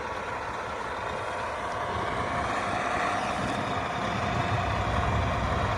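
2009 Volvo VNL truck's diesel engine idling steadily.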